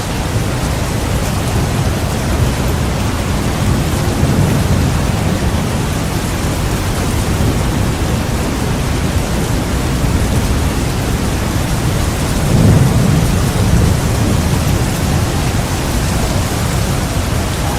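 Heavy rain falling steadily in a thunderstorm, with low rolling thunder that swells most strongly a little past the middle.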